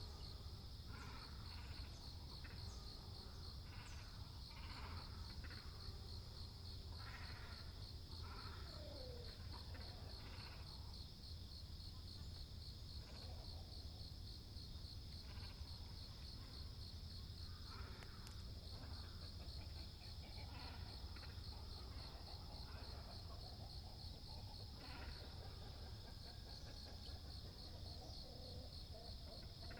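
Great cormorants and herons calling at a pond: harsh, throaty, bleating calls, many in the first half and fewer later, over a steady high pulsing insect chorus and a low steady rumble.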